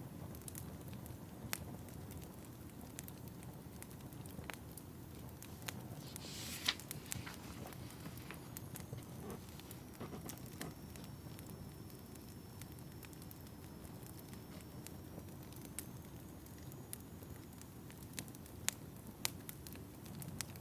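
Wood fire burning in a fireplace: a steady low rumble with scattered sharp crackles and pops. About six seconds in comes a short hiss with the loudest pop, and a faint high thin whistle runs through the middle.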